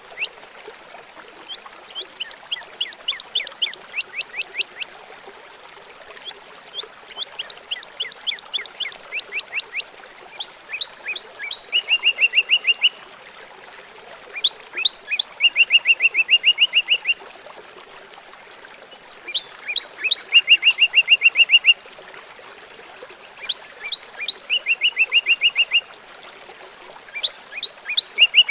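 A songbird sings in repeated phrases every few seconds. Each phrase is a quick run of steeply falling high notes, often ending in a fast, even trill. Under it runs the steady hiss of gurgling running water.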